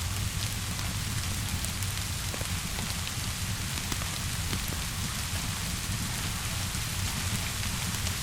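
Steady rainfall, an even hiss of rain on surfaces with a low rumble underneath and scattered small clicks of drops or crackles throughout.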